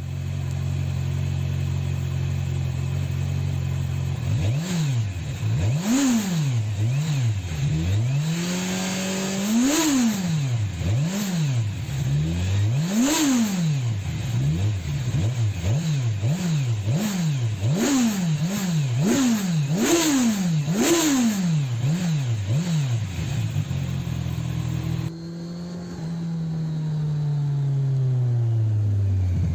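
Kawasaki Ninja 1000 SX inline-four motorcycle engine, fitted with its Arrow or its stock exhaust, idling and then blipped repeatedly, about fifteen quick revs each rising and falling back. After an abrupt change about 25 s in, a steady engine note falls in pitch near the end.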